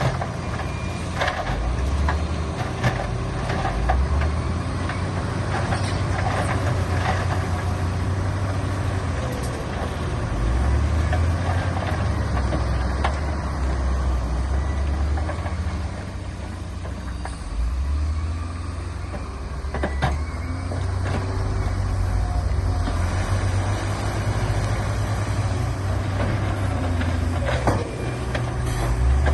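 Heavy diesel earthmoving machinery running, its engine note swelling and easing, with scattered knocks and clanks.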